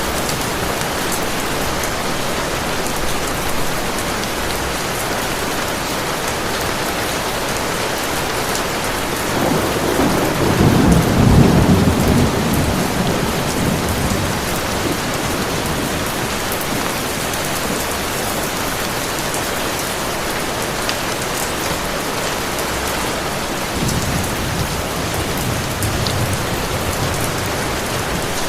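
Steady heavy rain, with a rolling rumble of thunder that swells about ten seconds in and fades over several seconds, and a fainter rumble near the end.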